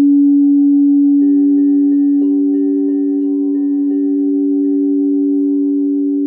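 Singing bowls ringing with pure, sustained tones: one low tone holds steady, and a second, higher bowl joins about a second in, pulsing faintly and evenly as it sings.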